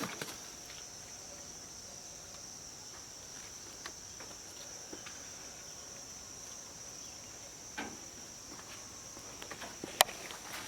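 Steady high-pitched insect chirring, with scattered light clicks and knocks and a sharp click near the end.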